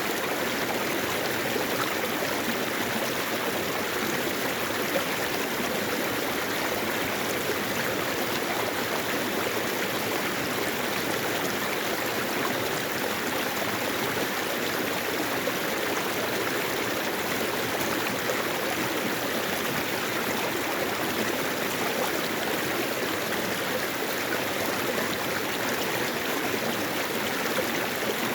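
Mountain stream water running over rocks, a steady even rush that does not change.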